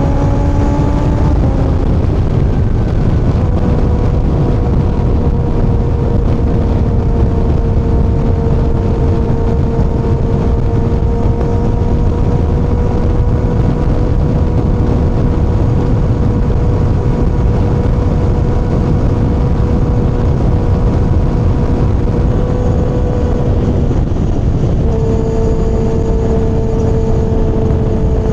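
Kawasaki ZX-6R's inline-four engine under way: rising in pitch at first, dropping back about two seconds in, then holding a steady cruising pitch, with a brief dip about 24 seconds in. Wind and road noise rush steadily underneath.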